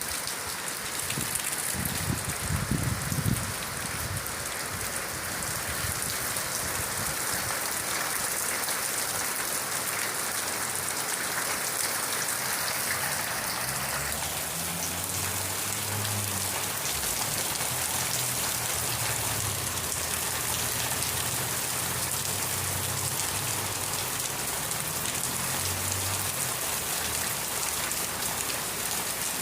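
Steady rain falling on a surface: a dense, even hiss of many drops, with a brief low rumble a couple of seconds in.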